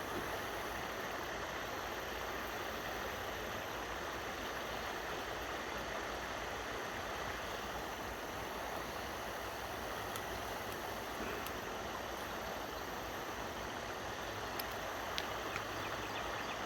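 Steady rush of flowing river water, an even wash of noise that holds constant throughout, with a few faint clicks near the end.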